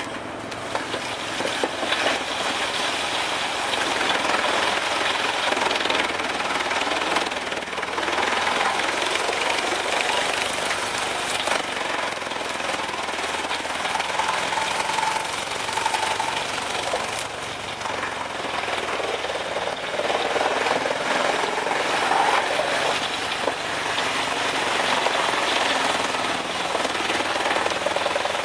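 Large wood chipper feeding and chipping wood: a continuous, dense grinding and rattling noise full of sharp cracks, slightly easing for a moment past the middle before picking up again.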